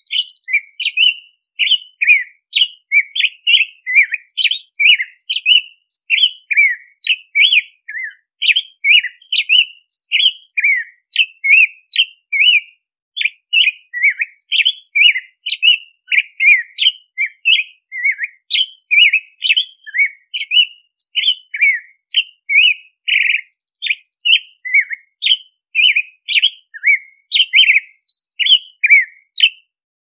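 American robin singing: a long, steady run of short whistled caroling notes, mostly quick falling slurs at about two to three a second, with a few faint high squeaky notes mixed in.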